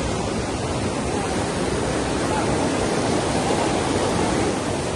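Fast-flowing floodwater rushing steadily, a loud, even noise without breaks.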